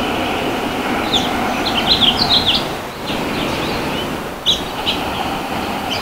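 Small birds chirping in short, quick calls: a cluster from about one to two and a half seconds in, and a few more at four to five seconds, over a steady outdoor background noise.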